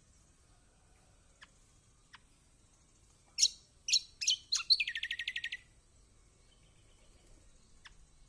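Kecial kombok white-eye calling: a few faint single chips, then about three and a half seconds in a loud run of sharp, falling notes that breaks into a fast, rattling trill lasting about a second.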